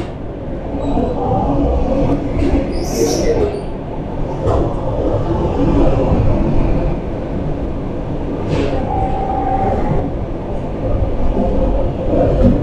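Commuter electric train running with a steady rumble of wheels and car body. There is a short hiss about three seconds in and a brief steady tone near nine seconds.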